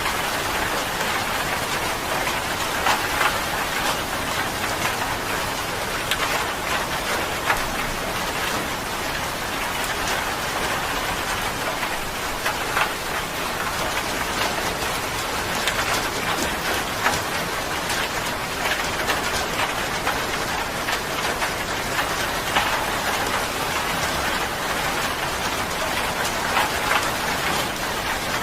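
Steady rain falling on a surface, a constant hiss with many individual drops ticking and pattering through it.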